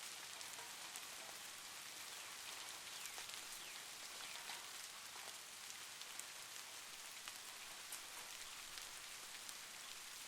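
Steady rainfall, a fine even hiss with many separate drop hits ticking through it.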